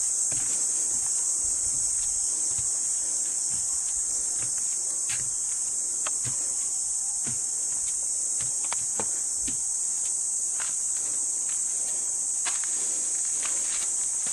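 Steady, high-pitched drone of an insect chorus, unbroken throughout, with scattered light clicks and knocks beneath it.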